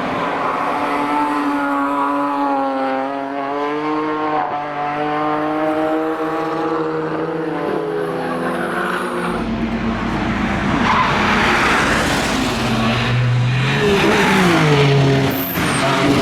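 BMW E46 M3 racing past at full throttle: its engine note climbs in pitch through the gears, then grows louder and rougher as the car passes close, and the pitch drops sharply near the end.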